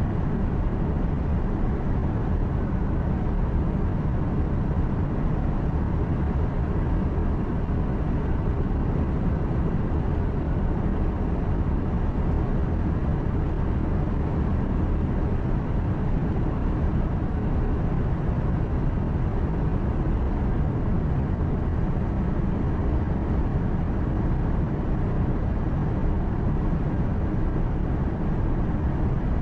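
Truck engine hum and tyre and road noise heard from inside the cab while driving, a steady low drone with no distinct events.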